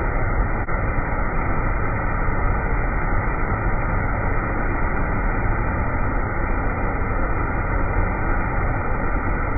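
Steady rushing water of a waterfall or stream with a strong low rumble, heard muffled with the high end cut off.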